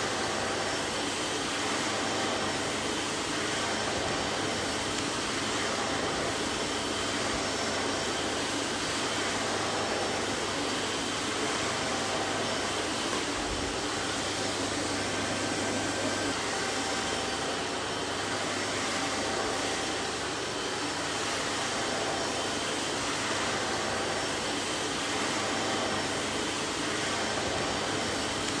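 Vacuum cleaner running steadily: an even, unbroken rushing noise with a faint steady motor hum beneath it.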